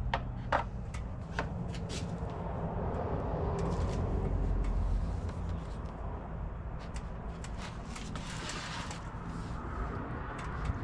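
Handling noises: a few sharp clicks near the start, then rubbing and shuffling over a steady low rumble.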